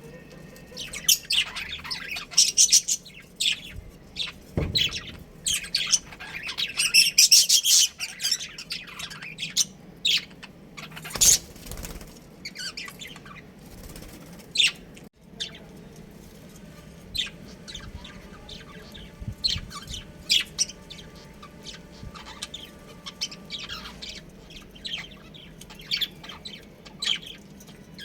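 Budgerigars chirping and chattering in quick, high, twittering calls, thick for the first several seconds and then thinner and more scattered. A couple of brief louder noises stand out, about five and eleven seconds in.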